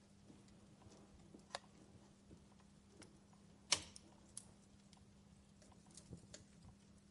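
Fireplace fire crackling faintly, with scattered sharp pops and one louder pop a little under four seconds in, over a steady low hum.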